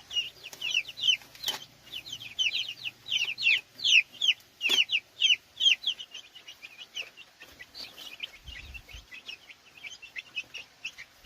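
Young chicks peeping in a crowd: short, high downward chirps, several a second, thinning out after about six seconds. Two sharp knocks cut through the chirping.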